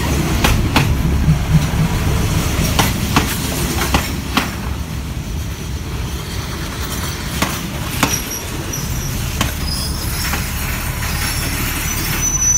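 Diesel railcar train rolling slowly past, its wheels clacking over rail joints above a steady low rumble. The clacks come further apart as it slows for the station stop, and a faint high squeal of wheels or brakes appears near the end.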